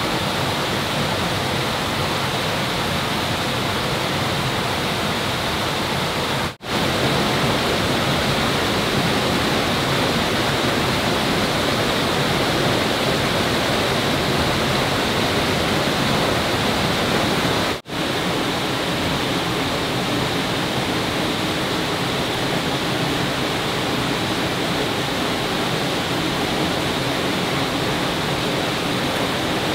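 Water rushing steadily, like a stream or small waterfall, broken by two very brief gaps.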